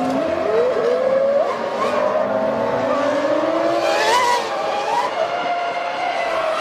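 Formula One cars' V10 engines at full revs, their notes climbing and dropping sharply with gear changes as cars sweep past.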